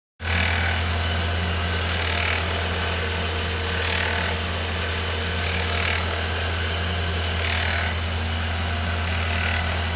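Ford Fiesta Zetec Rocam engine idling with a steady hum and a rubbing, scraping noise that swells about every two seconds. The noise comes from a worn auxiliary-belt bearing, which the owner first took for timing-chain rattle.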